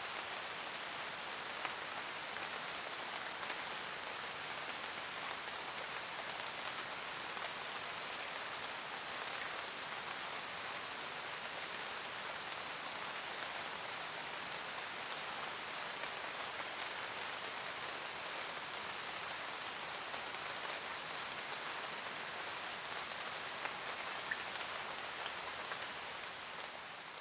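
Steady rain falling in a forest, an even hiss with scattered individual drops ticking, fading out near the end.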